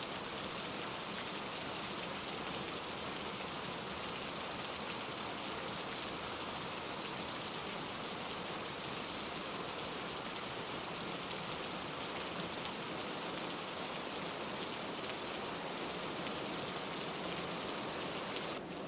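Steady rain falling, a continuous even hiss of drops, with a brief dip in level near the end.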